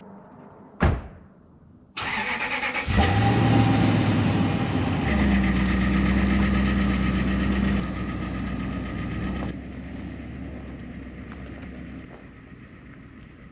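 A single thud, then a truck engine is cranked and catches about three seconds in, runs at a raised, steady speed for several seconds and then drops back to a quieter idle.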